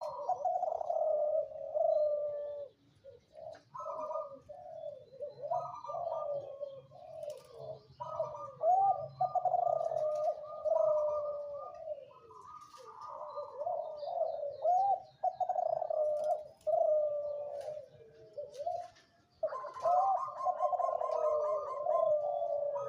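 Zebra dove (derkuku) cooing over and over in a series of rolling, warbling coo phrases with short pauses between them, typical of a vigorously singing contest-line bird. Faint chirps from other small birds sound in the background.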